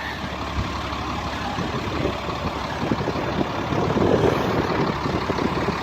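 GMC C7500 grain truck's engine idling steadily, running smoothly.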